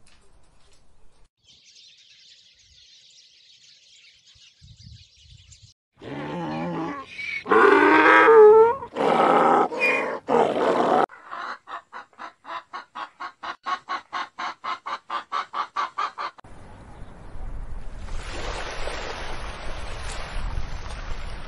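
A run of different animal calls. First a faint high hiss, then loud calls with a wavering pitch a few seconds in, then a fast pulsed call at about four pulses a second, then a steady noisy stretch with a low rumble near the end.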